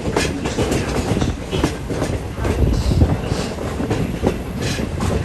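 Railroad passenger coach rolling along the track: a steady rumble with irregular clicks and clacks from the wheels running over the rails.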